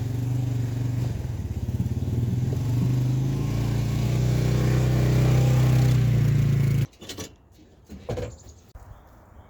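A motor vehicle's engine running steadily, growing louder and slightly higher a few seconds in, then cutting off abruptly about seven seconds in. A few faint knocks follow.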